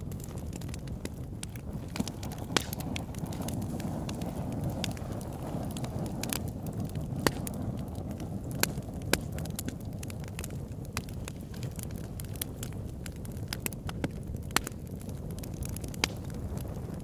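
Log fire burning in an oil-drum fire pit, crackling with irregular sharp pops, several much louder than the rest, over a steady low rush.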